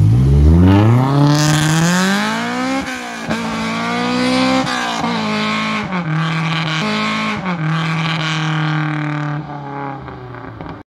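K-swapped BMW 2002's Honda four-cylinder engine accelerating hard away from a standstill. The revs climb, then drop at gear changes about three and about five seconds in, then the engine holds a steady note as the car drives off. The sound fades slightly near the end, then cuts off suddenly.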